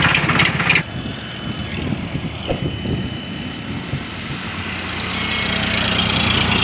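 Eicher tractor's diesel engine running. About a second in it drops away suddenly in loudness, then builds up again over the last couple of seconds, with a few light clicks in between.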